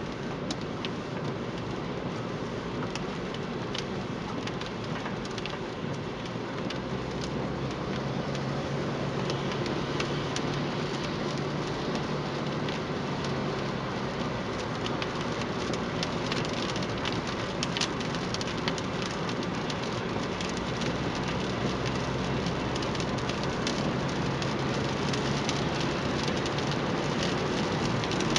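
Rain falling during a thunderstorm: a steady hiss dense with sharp taps of individual drops striking a hard surface, over a steady low hum.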